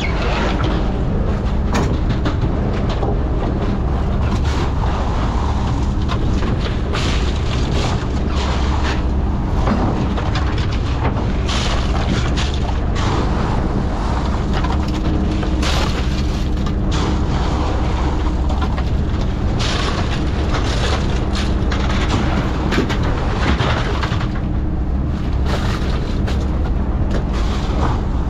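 Fishing boat's engine running steadily with a constant low hum, under irregular rushing bursts of noise.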